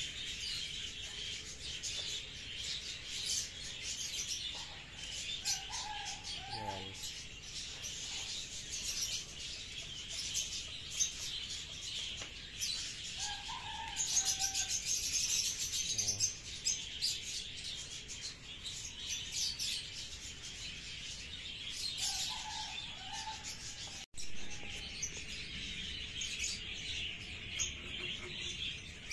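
Birds chirping steadily in a dense chorus, with a few lower calls now and then and a momentary dropout about two-thirds of the way through.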